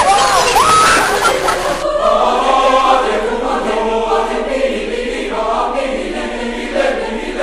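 Wind and surf noise with a few gull-like squawking calls, cut off suddenly about two seconds in by choir music: voices singing sustained chords.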